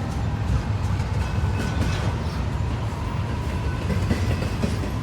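Norfolk Southern freight train rolling slowly past at close range: a steady low rumble with scattered clicks.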